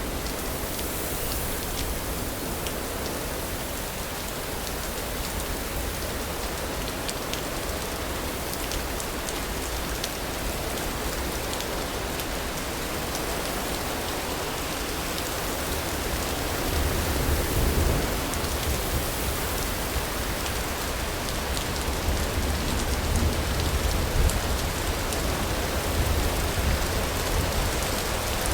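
Steady rain falling, with a low rumble of thunder swelling a little after halfway through and again near the end.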